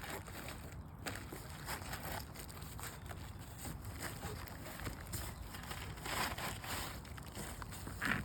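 Faint rustling and scraping of hands working shingles and a plastic tarp, over a steady low outdoor rumble, with a slightly louder rustle about six seconds in.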